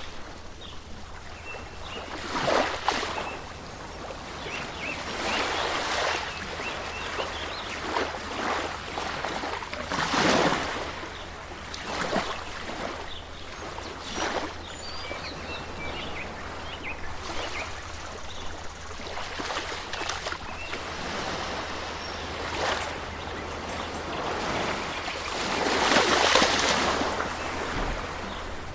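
Water washing in irregular surges every two to three seconds, like small waves on a shore, with a few faint high chirps.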